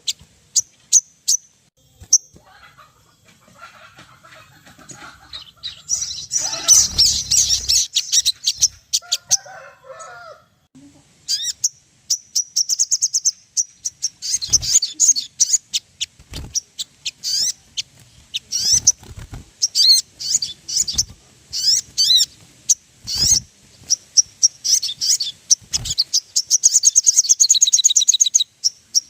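Sogon birds calling: rapid high-pitched chirps and trills, with dense chattering bursts about six seconds in and again near the end. A few dull thumps come in between.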